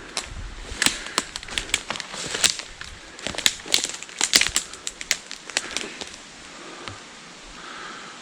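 Footsteps crunching and snapping on brittle debris: a run of irregular sharp cracks and clicks that thins out after about six seconds.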